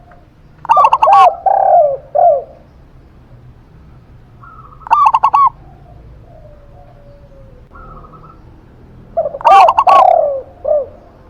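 Zebra dove (perkutut) and spotted dove (tekukur) cooing. Three loud bouts of quick rolling coo notes come about a second in, around five seconds and near the end, with softer, lower drawn-out coos between them.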